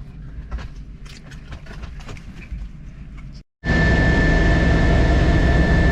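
Light rustling and small clicks inside a helicopter cabin. After a cut about three and a half seconds in, loud steady helicopter noise: a constant high turbine whine over a heavy rotor and engine rumble.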